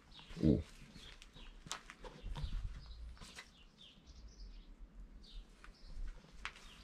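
Small birds chirping in short, repeated high calls, with a few sharp clicks.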